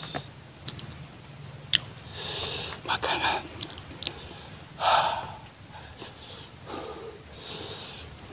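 Close-up eating sounds: chewing and biting into raw red chili peppers, a few clicks and short wet crunching bursts, the loudest about five seconds in. Behind them, birds chirp and an insect keeps up a steady high trill.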